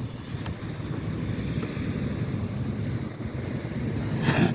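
Strong wind buffeting the microphone in a steady low rumble, with a short louder rush of noise near the end.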